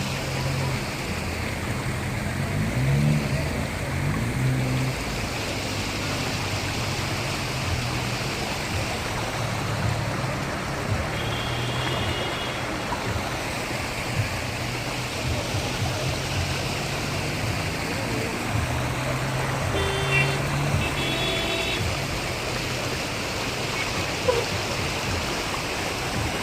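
Steady rushing noise of heavy storm rain and running floodwater, with a low vehicle engine hum underneath and a few short high beeps about halfway through and again later.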